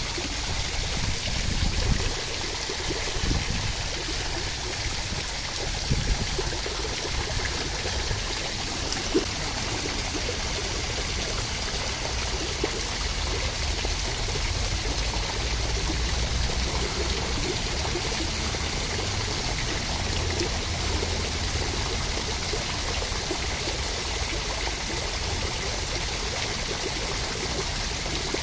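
Steady, unbroken rush of water with a low rumble beneath it and a few faint ticks.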